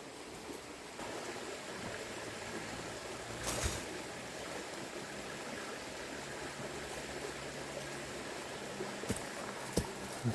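Steady rush of a small river flowing, with a brief rustle about three and a half seconds in and a few sharp knocks near the end.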